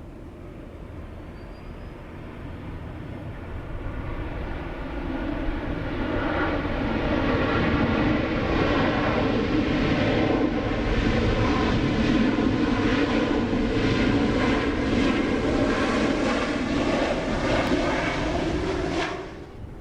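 Airliner's engines passing close by, building steadily to a loud steady sound, then cutting off suddenly near the end.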